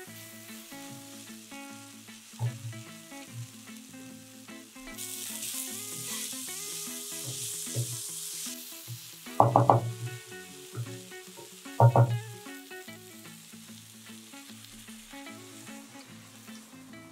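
Chicken pieces in thick masala sizzling in a nonstick kadai as they are stirred with a wooden spatula; the sizzle is loudest from about five to eight seconds in. Two loud knocks come about two seconds apart near the middle. Soft background guitar music plays throughout.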